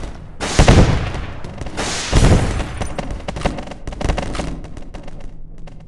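Two loud blasts about a second and a half apart, each trailing off, followed by a run of sharp cracks that thins out over the next few seconds.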